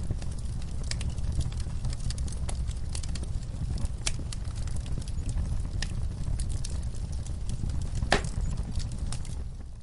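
Wood fire burning in a fireplace: a steady low rumble of flames with irregular crackles and pops, one louder pop about eight seconds in.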